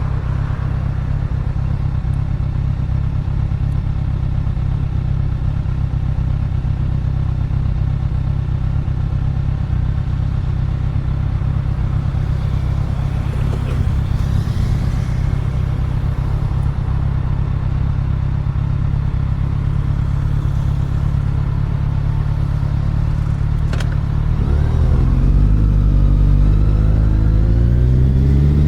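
Motorcycle riding with wind buffeting the microphone in a loud low rumble over the running engine. About 24 seconds in, the engine note climbs as the bike accelerates.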